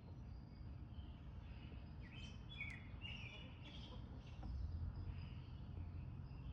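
A few short, high bird chirps and calls, bunched together about two to four seconds in, over a steady low outdoor rumble.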